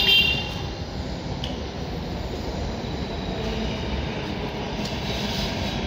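Delhi Metro train running past, a steady rumble, with a short high squeal at the very start.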